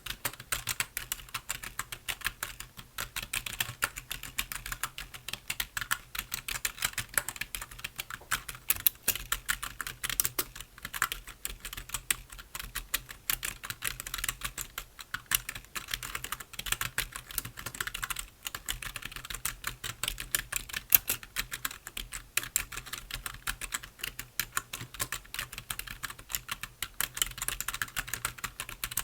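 Continuous fast typing on a computer keyboard: a dense, irregular stream of key clicks with no pauses.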